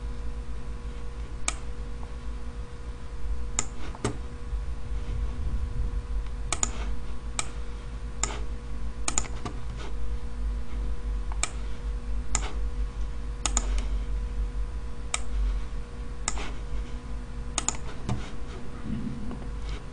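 Scattered clicks of a computer mouse and keyboard, about one every second or two, made while highlighting spreadsheet cells. A steady low hum runs underneath.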